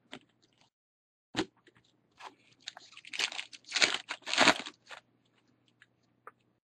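A trading-card pack's foil wrapper being torn and crinkled. A sharp click comes about a second and a half in, then several short rustling bursts.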